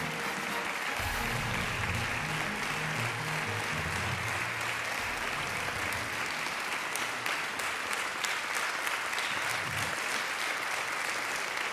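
Audience applauding steadily, with music playing underneath that fades out about halfway through.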